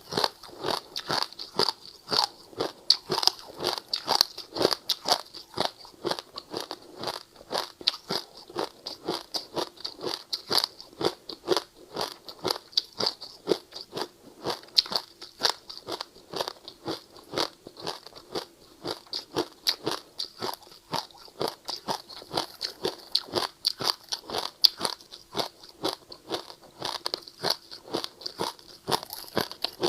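Ice being bitten and chewed close to the microphone: a steady run of crisp crunches, about three to four a second.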